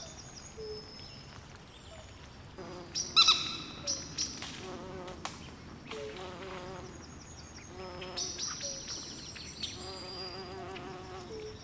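Swamp chorus: frogs trilling over and over, insects buzzing and high bird chirps, with one loud, sharp bird call about three seconds in.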